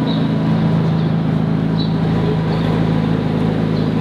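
A vehicle engine running with a steady, low, even drone.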